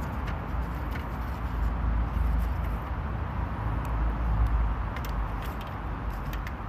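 Wood fire crackling in a small campfire stove, with sharp scattered pops over a steady low rumble that swells twice.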